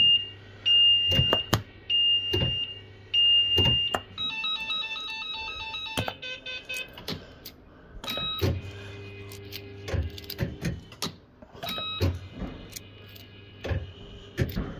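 Bell-Fruit FireCracker fruit machine's electronic sound effects: four even beeps about a second apart, then a quick run of stepped tones like a short jingle, with further tone phrases later and sharp clicks from the reels and buttons throughout.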